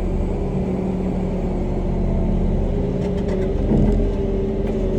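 Pushback tug's engine running steadily under load during an aircraft pushback: a low, even engine drone with steady hum tones over it.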